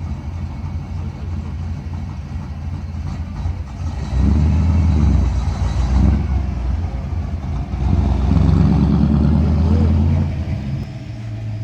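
A motor vehicle's engine running close by: a steady low hum that grows louder about four seconds in and eases back after about ten seconds, like a car or truck idling or rolling past.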